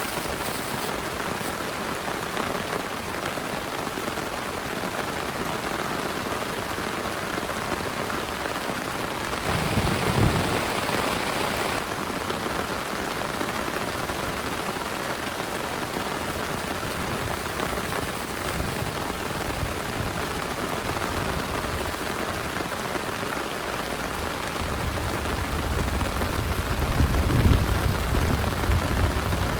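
Heavy rain falling steadily. About ten seconds in there is a short louder swell, and a low rumble of thunder builds near the end.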